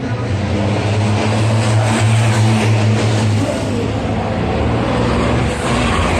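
Race trucks' diesel engines running loudly, a deep steady engine drone whose pitch drops about halfway through.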